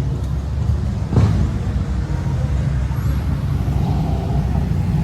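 Car engine running steadily, with a single knock about a second in.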